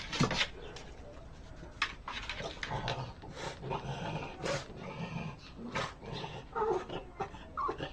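A dog vocalising, with short pitched sounds near the end, among scattered clicks and knocks.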